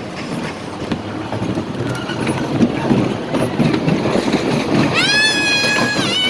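A small kiddie roller coaster train rattling and rumbling along its track, getting louder partway through. About five seconds in, a long, high squeal is held for roughly a second.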